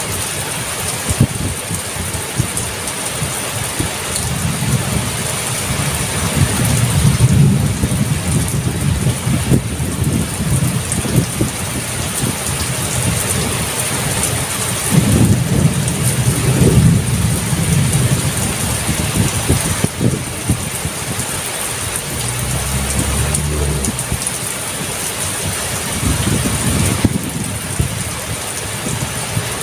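Heavy rain pouring steadily, with low rumbles of thunder swelling and fading several times.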